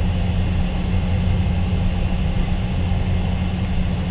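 Steady low hum inside a Boeing 777-200 cabin, heard from a window seat: engine and air-system drone at an even level.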